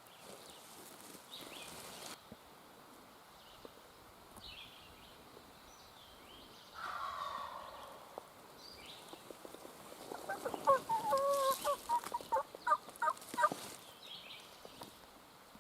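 Wild turkey calling: a gobble about seven seconds in, then a loud run of quick yelping notes lasting about three seconds. Small songbirds chirp faintly in between.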